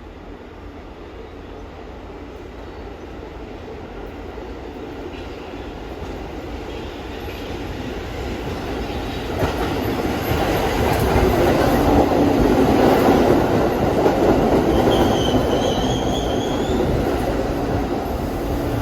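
New York City subway train approaching, its rumble building steadily and growing much louder about halfway through as it runs in past the platform. A short high wheel squeal rings out about three quarters of the way through.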